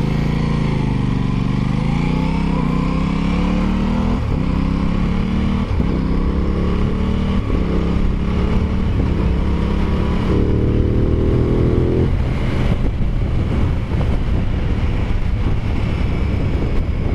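Aprilia Tuono 660's parallel-twin engine accelerating hard through the gears: its pitch climbs and drops sharply at each of about five upshifts. After about twelve seconds the engine note gives way to a steady rush.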